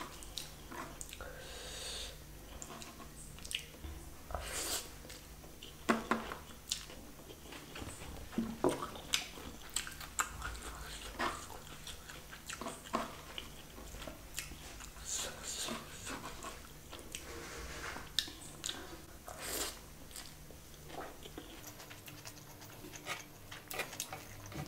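A person chewing a mouthful of chicken curry and rice close to the microphone, with irregular wet mouth clicks and smacks.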